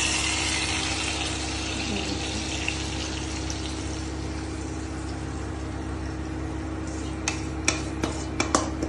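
Yogurt-marinated chicken sizzling as it is poured into hot butter and olive oil in a frying pan: a steady hiss that eases slightly, with a low hum underneath. In the last couple of seconds, a quick run of sharp clicks as utensils knock against the pan.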